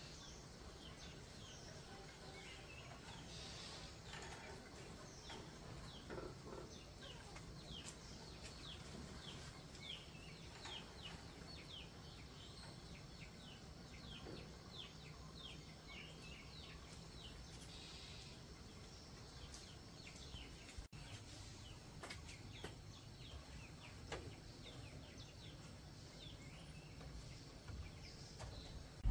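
Birds chirping: many short, high calls, each sliding downward, in a quick run through the middle of the stretch, over a faint steady low rumble of outdoor background noise.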